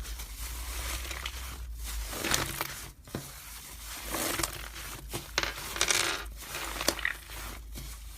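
Slime being squished and pressed by hand, giving a run of crackling clicks and pops.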